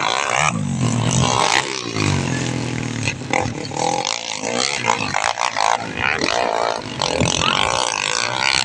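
Dirt bike engine running and revving, its pitch rising and falling repeatedly as the throttle is worked.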